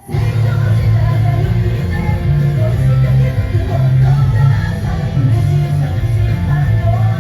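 Loud live rock music with singing and a heavy bass line, coming back in at full volume right at the start after a brief drop.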